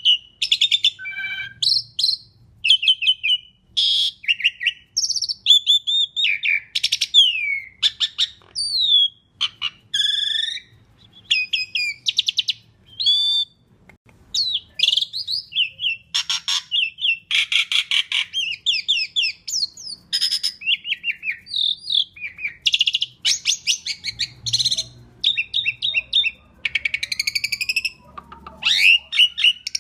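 Asian pied starling (jalak suren) singing a long, varied song: a rapid stream of clear whistles, rising and falling slurs and harsh rasping notes, with only brief pauses.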